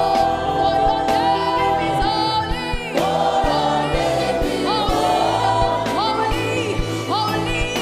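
Live gospel worship music: voices singing over a band with a steady drum beat.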